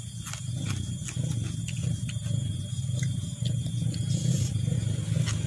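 Close-up chewing and crunching of raw vegetables and rice, with many short wet mouth clicks, over a steady low rumble.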